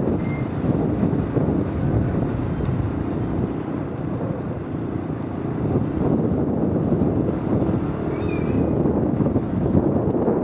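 Honda XR250 dirt bike's single-cylinder four-stroke engine running while riding along, mixed with steady wind rush on the microphone.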